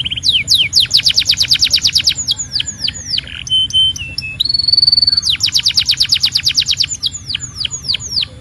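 Domestic canary singing: fast trills of repeated falling notes, about ten a second, broken in the middle by short steady whistled notes, then another fast trill ending in a few slower falling notes.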